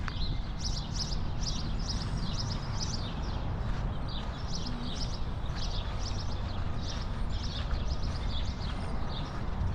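Small birds chirping over and over, several short high calls a second, over a steady low rumble.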